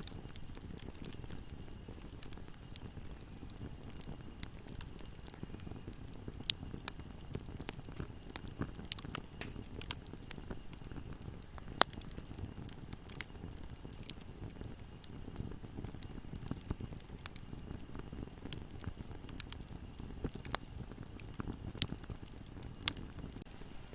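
Wood campfire crackling: a steady low rumble of burning with scattered sharp pops and snaps, two louder snaps about six and a half and twelve seconds in.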